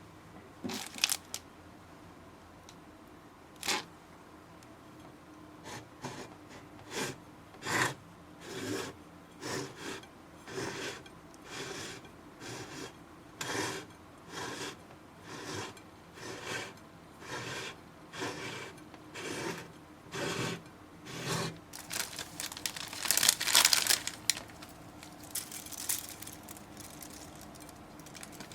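Slime being squeezed and stretched by hand, making repeated short squishing, crackling sounds at about one and a half a second. A few sharp clicks come first, and a denser, louder burst of crackling comes about three quarters of the way through.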